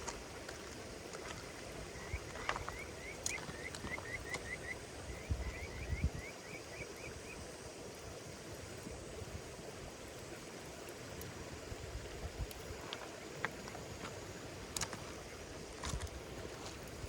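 Campfire crackling: a steady low hiss with scattered sharp pops and snaps, a few louder ones now and then. For a few seconds early on, a run of short, quick, rising chirps sounds over it.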